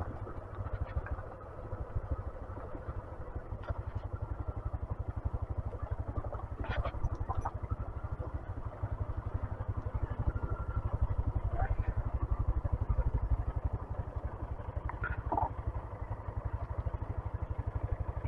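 Small 125cc motorcycle engine running as the bike rides along, a rapid low pulsing throughout, with a few short high squeaks and clicks.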